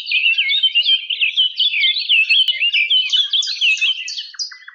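Birds chirping and twittering in a fast, continuous chatter of short high calls and trills.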